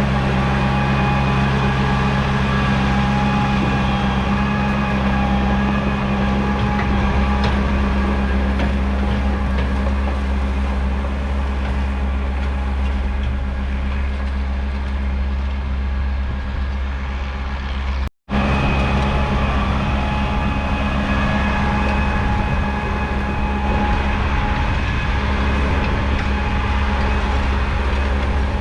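1975 Massey Ferguson 1200's 5.8-litre six-cylinder diesel engine running steadily, a low drone with a few steady higher whining tones over it. The sound cuts out for an instant about two-thirds of the way through.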